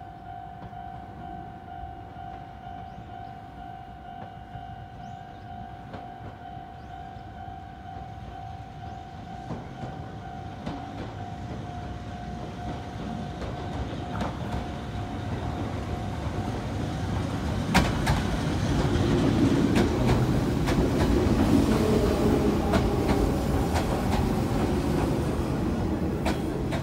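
An electric passenger train approaches and pulls in beside a station platform, its rumble growing steadily louder until it is loudest in the last third, with a squeal from the wheels and brakes as it slows. A steady level-crossing warning tone rings under the approach and stops about two-thirds of the way through, around a sharp click.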